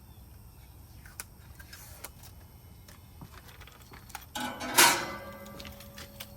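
Protective plastic film being peeled off a stainless steel grill side shelf: a few light clicks and rustles, then about four and a half seconds in a loud ripping sweep under a second long. The sheet metal rings briefly afterwards.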